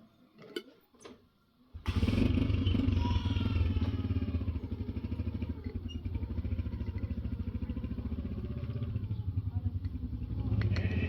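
A few faint clicks, then about two seconds in an engine-like sound starts abruptly and runs steadily with a fast, even pulse.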